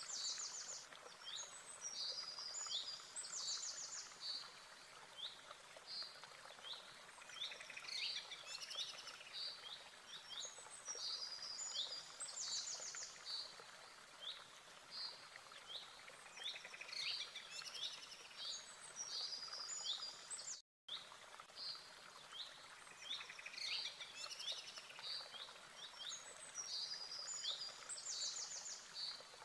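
Birds chirping and trilling over a soft background hiss, with the same high phrases recurring every few seconds. The sound cuts out for a split second about two-thirds of the way in.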